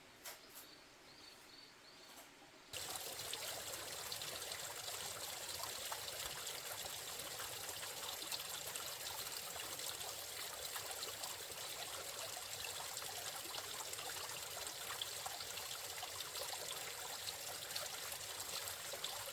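Water trickling and running steadily out of a pond through an earthen culvert, starting abruptly a little under three seconds in. Before it, only a few faint clicks in near quiet.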